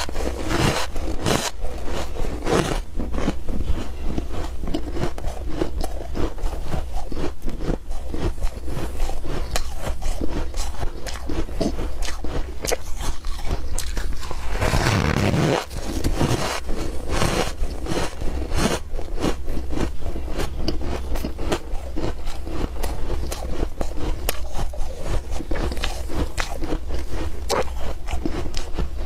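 Ice being bitten and chewed close to the microphone: a dense, irregular run of crunches, with a louder burst about halfway through.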